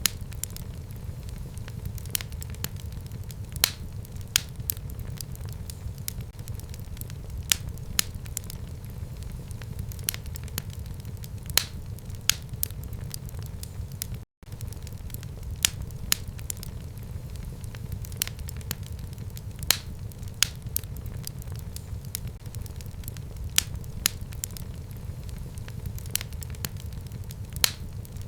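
Fire burning in a fireplace: a steady low rumble with frequent sharp crackles and pops scattered irregularly throughout. The sound cuts out for an instant about halfway through.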